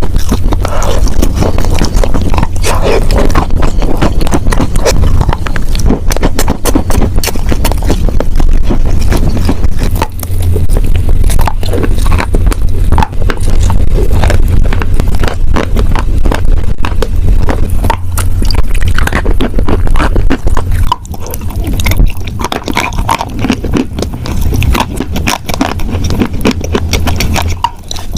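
Close-miked crunching and chewing of wet chalk: a dense, continuous run of crackly crunches, a little quieter and sparser from about three-quarters of the way through.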